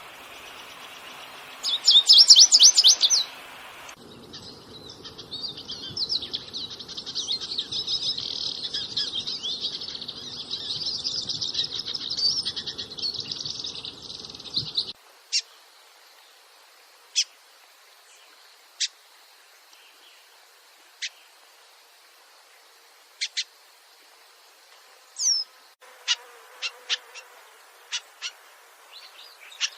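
Small songbirds chirping: a loud burst of rapid chirps about two seconds in, then dense, continuous high twittering until about fifteen seconds, then single sharp high notes a second or two apart, several in quick succession near the end.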